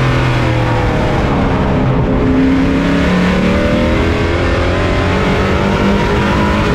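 Pro truck's race engine, heard from on board, running hard under racing load. Its pitch drops in the first couple of seconds as the throttle eases, then climbs again toward the end, the way an engine goes through a turn on a short oval.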